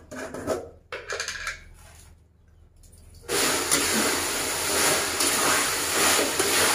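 Eggplant and chili frying in oil in an aluminium wok, a loud steady sizzle that starts suddenly about three seconds in, with a metal spatula scraping as the food is stirred. Before it, a few light clinks and rustles as a small seasoning container is handled.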